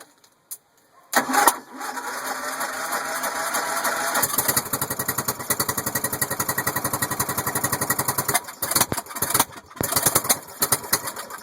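Murray riding mower's Briggs & Stratton engine on a cold start after months unused. Driven by the starter jumped directly, it cranks for a few seconds, catches and fires at an even beat, then stumbles and sputters in uneven bursts and cuts out near the end. The owner suspects a dirty carburettor is making it run rough and backfire through the carb.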